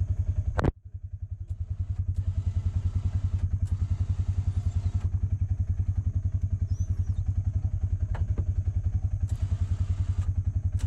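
Small off-road vehicle engine idling with a steady, rapid low pulsing. A sharp click comes under a second in, and the sound briefly drops away before coming back.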